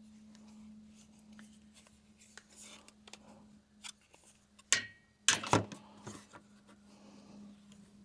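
Scattered small clicks and knocks of plastic trim parts and push-pin fasteners being handled and fitted, with two louder sharp knocks a little past halfway, over a steady low hum.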